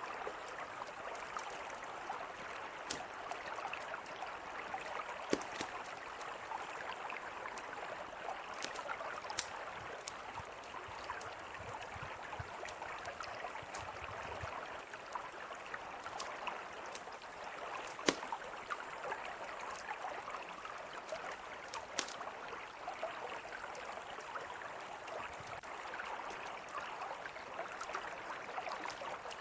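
Mountain river flowing in a steady rush, with a campfire crackling over it in scattered sharp pops, the loudest a handful spread through the stretch.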